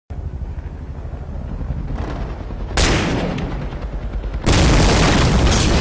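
Battle sound effects of gunfire and artillery: a low rumble, then a sudden loud burst about three seconds in and a louder, sustained barrage from about four and a half seconds in.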